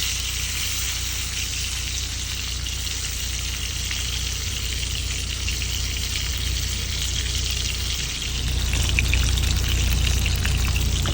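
Steak searing in a frying pan just after being flipped, a steady sizzling hiss, over a low steady hum that gets louder about eight seconds in.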